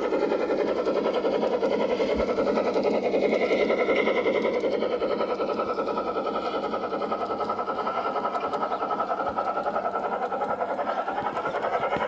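G-scale garden-railway model train running past close by: the whine of its electric motor and gears with a fast, steady rattle of wheels on the track. The whine shifts in pitch near the end.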